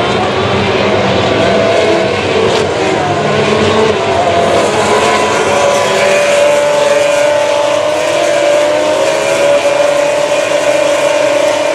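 GP3 race car's V6 engine running at high revs, its note shifting early on and then climbing slowly and steadily from about four seconds in.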